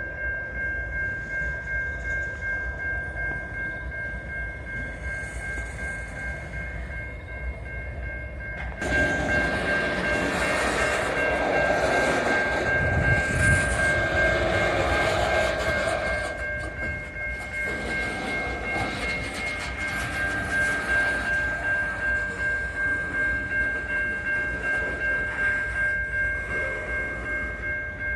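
A train rolling by with a rhythmic low rumble of wheels on rail, under a steady high-pitched tone that lasts throughout. About nine seconds in it swells suddenly as a louder section passes, then eases back after about seven seconds.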